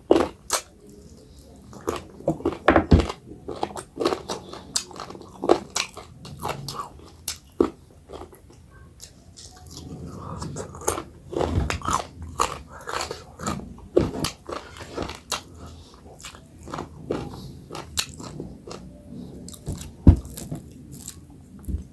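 Close-miked eating sounds: irregular wet mouth smacks and chewing clicks as a person chews a soft dhido-and-curry meal.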